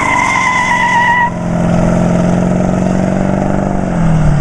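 A 350 Chevy small-block V8 in a street rod running hard under acceleration, with a high steady squeal over it that cuts off suddenly about a second in. Near the end the engine note drops lower.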